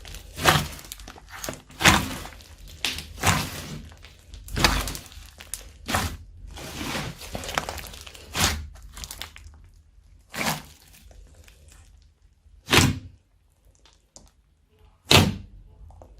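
Slime being mixed and squished, giving a series of sharp pops and squelches. They come about every second or two at first, then only three more, spaced a couple of seconds apart, in the second half.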